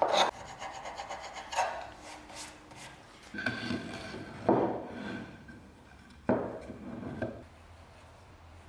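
Rubbing, rasping strokes on wood: a handful of separate passes with short pauses between them.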